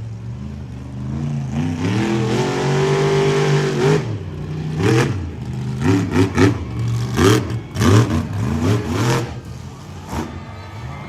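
Monster truck engine revving hard: it climbs and holds high for a couple of seconds, drops off, then gives a quick series of sharp throttle blips.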